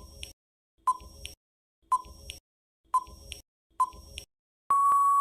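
Quiz countdown timer sound effect: five short electronic beeps about one a second, then a long steady beep that signals time is up.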